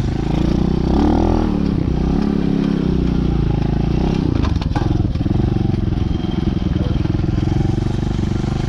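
DB14 youth dirt bike engine running while ridden, the revs rising and falling in the first few seconds, then holding fairly steady, with a few sharp clicks about four and a half seconds in.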